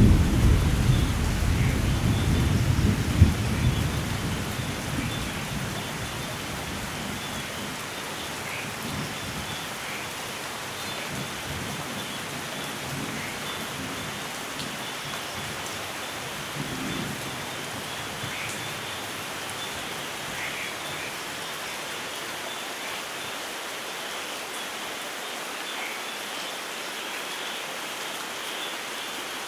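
Steady rain falling, with a rumble of thunder at the start that dies away over the first five seconds or so. A fainter low rumble swells briefly about halfway through.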